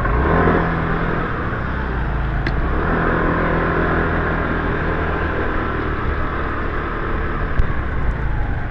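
Motorbike engine pulling away and running steadily while riding, with wind and road noise; a single sharp knock near the end.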